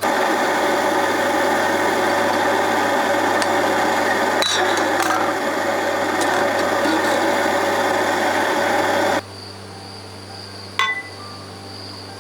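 A power tool running steadily for about nine seconds, then cutting off suddenly, followed by a single sharp clink.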